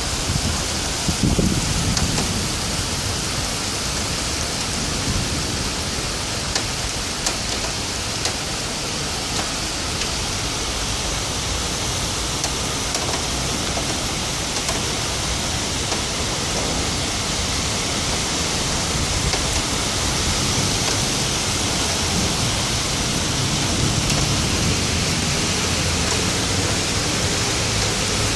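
Heavy thunderstorm rain pouring steadily, with a brief low rumble about a second in.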